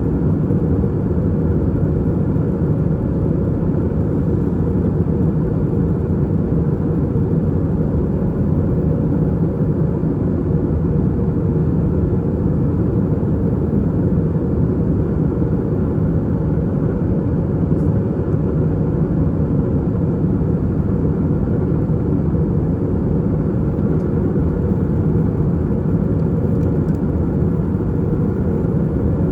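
Steady cabin noise of an Airbus A320-232 in flight: the constant rush of airflow and the drone of its IAE V2500 engines, heard from a seat inside the cabin.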